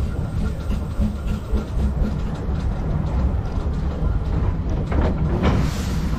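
Narrow-gauge train on the move: a steady low rumble of wheels on track with irregular clicks and knocks, and a rushing noise that swells near the end.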